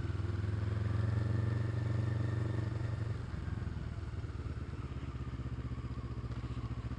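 Motorcycle engine running under the rider, its note steady, then dropping in level about three seconds in and carrying on as a lower, even beat.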